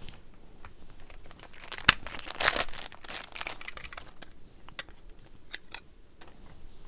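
Plastic or foil card packaging crinkling as trading cards are handled. A sharp click comes about two seconds in, then about a second of louder crinkling, then a few small clicks and rustles.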